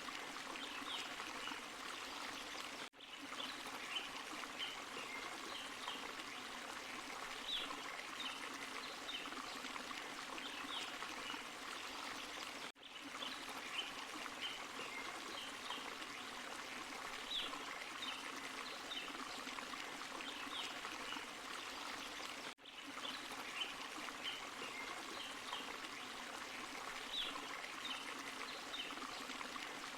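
Small forest stream and waterfall running over rocks: a steady rush of water with small bright splashes. The sound drops out for an instant about every ten seconds.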